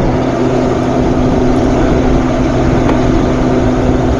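Steady machine drone: a constant low hum over an even rushing noise, like a motor or fan running without a break.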